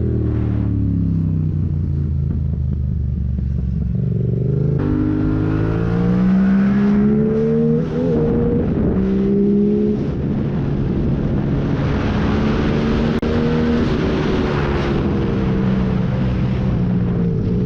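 Yamaha MT-07's parallel-twin engine through a decat, no-dB-killer MIVV full exhaust, ridden hard. The pitch falls for the first few seconds as the bike slows, then climbs through the revs with brief dips at gearshifts about eight and ten seconds in, and falls away again toward the end.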